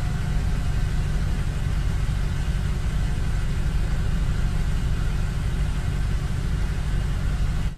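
Steady low rumble of a car engine idling, with a constant hiss over it, cutting off abruptly at the end.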